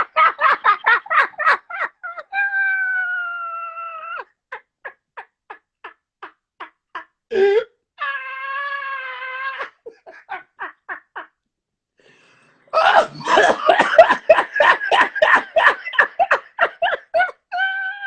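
Hard, uncontrolled laughter in rapid bursts of about four or five a second, broken several times by long, high-pitched wailing squeals, with a short pause near the middle before another loud fit of laughing.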